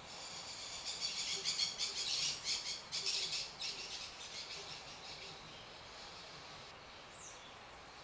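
Songbird chirping: a fast run of high, evenly repeated notes that swells for a few seconds and then fades, with one short falling note near the end.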